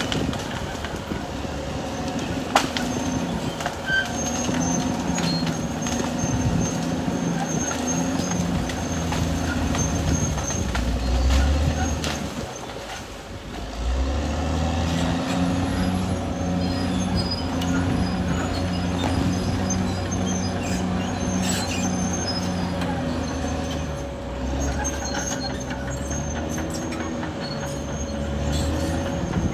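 Caterpillar D6R XL bulldozer working: its diesel engine runs steadily under load, with a few sharp metallic clicks from the machine. About halfway through the engine drops off briefly, then comes back up strongly.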